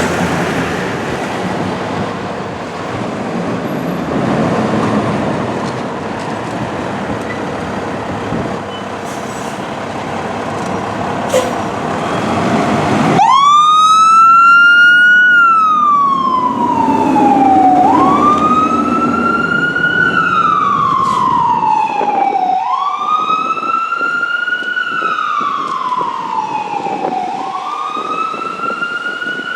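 Fire engine siren wailing, coming on about 13 seconds in: each cycle rises quickly and falls slowly, repeating about every four and a half seconds. Before the siren starts there is steady vehicle and wind noise.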